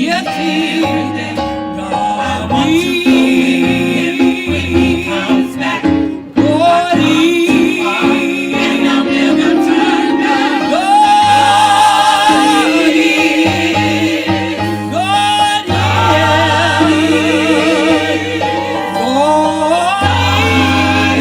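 Gospel choir singing with vibrato and sliding notes, over instrumental backing with a low bass line.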